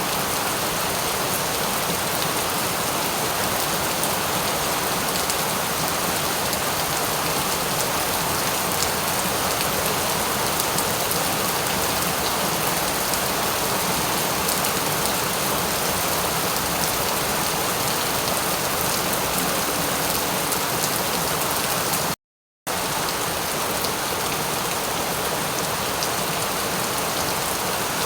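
Steady rain falling, an even hiss with fine drop patter. It cuts out to total silence for under half a second about three-quarters of the way through, then resumes unchanged.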